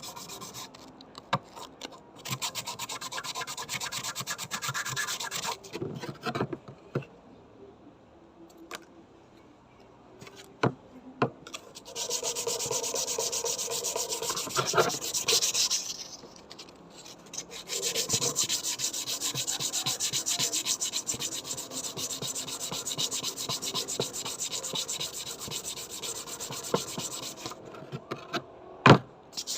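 Rapid back-and-forth abrasive rubbing on a bayonet scabbard, as in sanding or scrubbing it down for restoration, in spells broken by pauses. A single sharp knock comes near the end.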